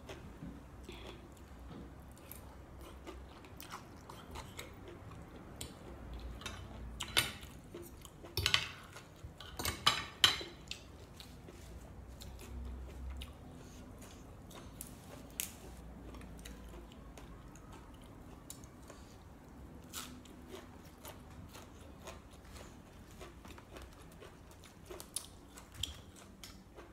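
Close-up chewing of a spicy glass-noodle salad with boneless chicken feet and fresh herbs. A few sharp clicks and crunches stand out, loudest about 7 to 10 seconds in.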